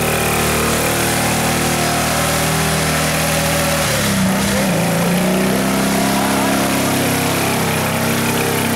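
Jeep CJ's engine running hard as the Jeep pushes through deep mud, a steady pitch that dips about four seconds in and then climbs again.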